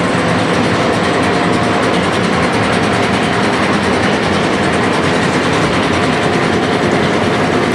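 Machinery running steadily: a loud, even mechanical noise with a faint steady hum through it.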